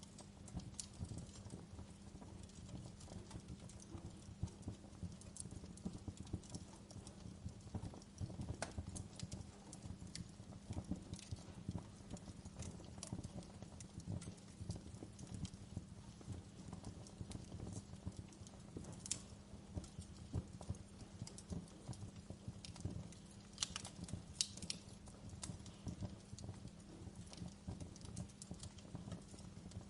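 Wood fire crackling steadily: a dense bed of small low pops and crackles, with a few sharper, louder snaps in the second half.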